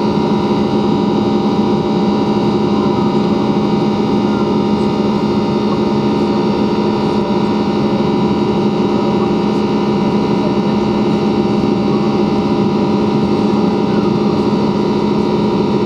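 Cabin noise of an Ilyushin Il-96-300 under power: its four Aviadvigatel PS-90A turbofans give a steady drone with several steady whining tones.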